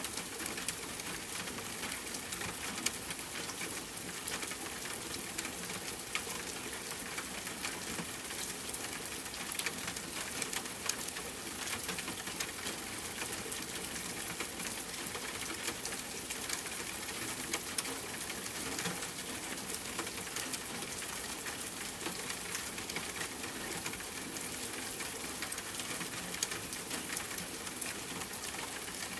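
Steady rain falling: an even hiss made of many small drops striking, without let-up.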